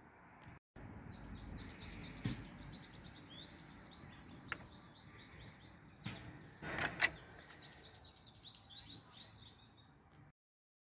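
Small birds chirping, rapid high notes repeated over a faint outdoor noise haze. A brief louder scuff comes a little before seven seconds in, with a couple of single clicks earlier. The sound cuts off suddenly near the end.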